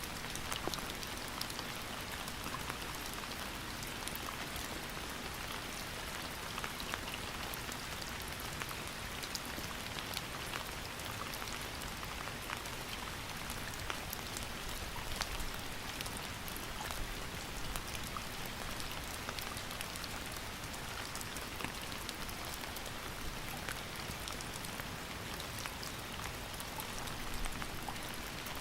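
Steady rain with many distinct drop ticks pattering on a surface.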